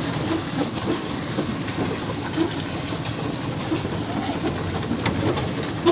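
Off-road vehicle moving over a rough track: a steady rumble with continual rattling and knocks.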